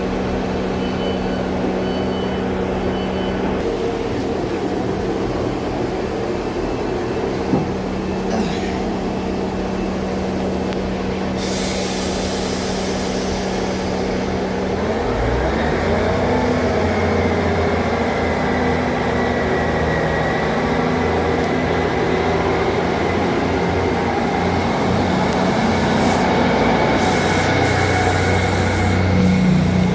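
Diesel multiple-unit train engine running steadily, then at about the halfway point a lower, stronger engine note with changing pitch takes over and grows a little louder, as the engines power up.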